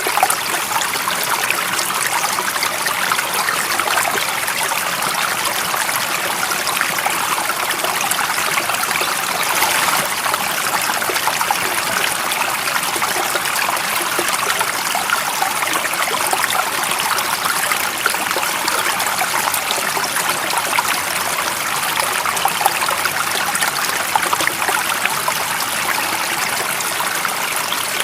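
Running water, steady and unbroken, with a fine trickling and splashing texture.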